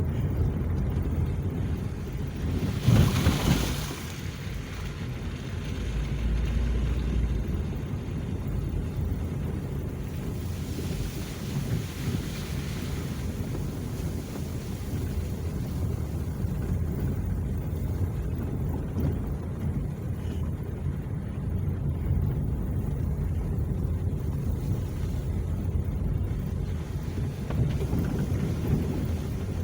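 Wind buffeting the microphone: a steady low rumble, with a louder gust about three seconds in.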